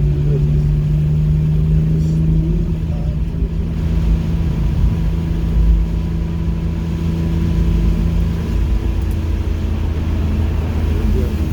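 Car engine running on track at a steady pitch over road noise; the steady engine note fades about three quarters of the way through.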